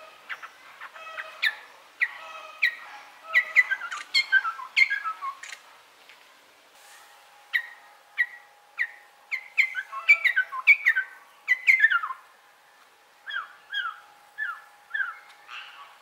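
A laughingthrush (Garrulax) calling: runs of loud, sharp notes that fall in pitch, coming in quick succession. There is a pause about six seconds in, and near the end the calls turn into shorter paired notes.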